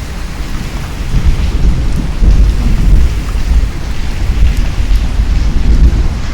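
Steady rain with a long, deep rumble of thunder that swells about a second in and rolls on, loudest near the middle and again near the end.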